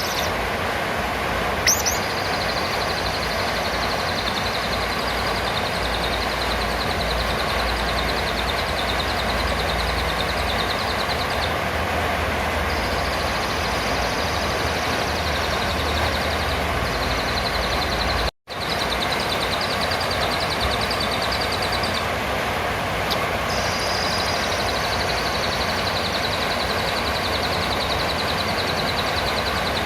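Recording of serindit (blue-crowned hanging parrot) calls: a steady, rapid high-pitched trill over a dense hissing background, broken by a momentary dropout about 18 seconds in.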